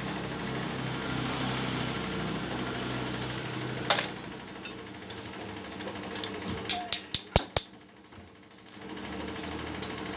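A steady mechanical hum, then a quick run of about six sharp metallic clicks or taps, with a short lull before the hum comes back.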